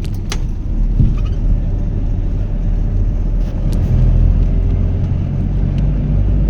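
Low, steady rumble of a motor vehicle running, a little louder in the second half.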